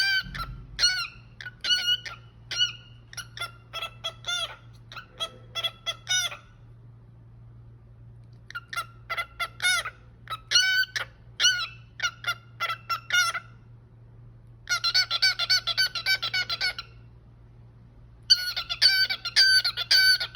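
Cockatiel singing: a string of separate whistled notes broken by two short pauses, with two fast, warbling runs of notes in the second half.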